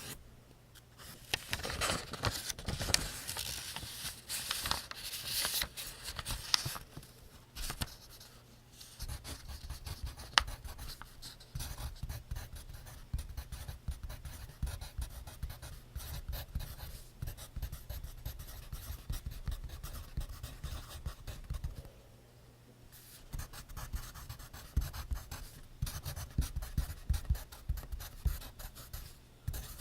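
Pencil writing on notebook paper: fast scratchy strokes, pausing briefly twice.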